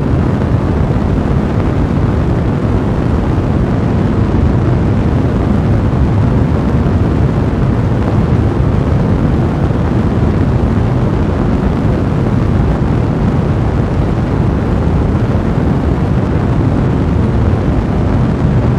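Fire burning in a fireplace: a steady, dense, low rushing noise.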